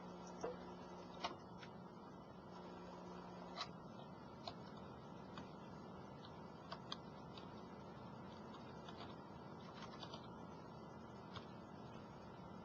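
Faint, irregular clicking at a computer, about a dozen scattered clicks, over a steady low electrical hum.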